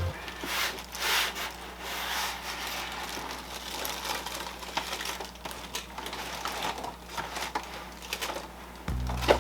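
Plastic packaging crinkling and rustling irregularly as ceiling fan parts are handled and unwrapped.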